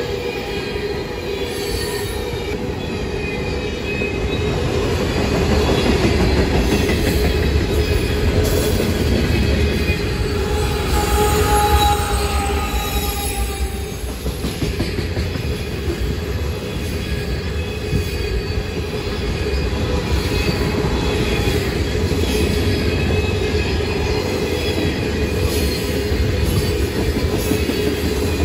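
Freight train of tank cars rolling past: a steady rumble of steel wheels on rail with faint squealing tones above it, and a brief higher wheel squeal about halfway through.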